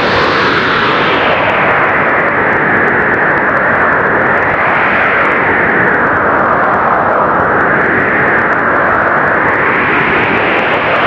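Blizzard wind blowing hard and steadily, swelling into stronger, hissier gusts about every five or six seconds.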